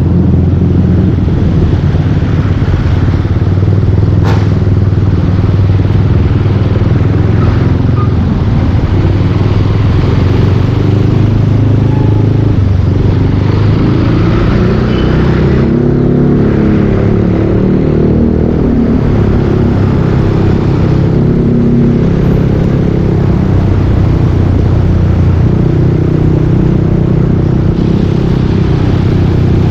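Yamaha Aerox 155 V2 scooter's single-cylinder engine running through a full Yoshimura aftermarket exhaust while riding, its pitch rising and falling with the throttle, mostly between about thirteen and twenty-one seconds in. A single sharp click about four seconds in.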